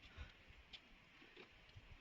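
Near silence: faint background noise with a few soft, scattered knocks.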